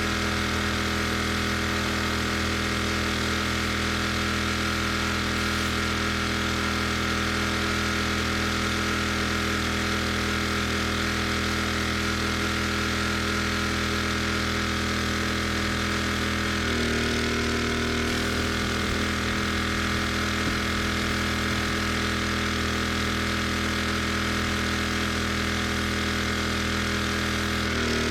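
Gas-engine pressure washer running steadily. Its engine note steps up briefly about 17 seconds in and again near the end, as the load on the pump changes.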